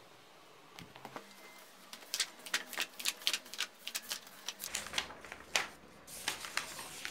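A quick, irregular run of small sharp clicks and taps, several a second, easing off after about six seconds.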